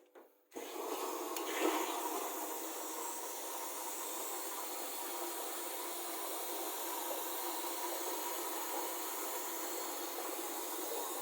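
Korting KWM 42D1460 washing machine taking in water at the start of a wash cycle, a steady hiss of water rushing into the drum. It starts abruptly about half a second in and holds even.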